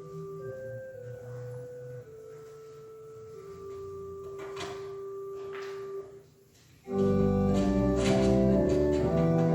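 Church organ playing during communion: a soft, slow melody of single held notes over a quiet bass. It breaks off briefly about six seconds in, then comes back much louder with full chords.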